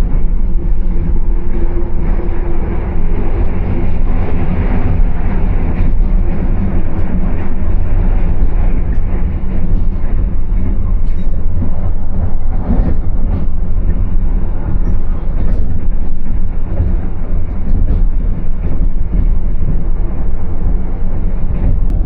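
Passenger train running at speed: a loud, steady rumble of wheels on the rails, with a few faint clicks.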